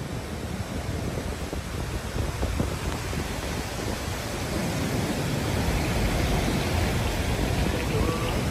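Steady rush of running water, like a waterfall or spring pouring off rock, growing louder about halfway through.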